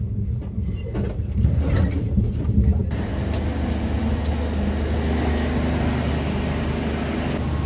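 Low rumble of a KTM train running on the rails. About three seconds in it cuts to the steady low hum and background noise of a station platform beside a standing train.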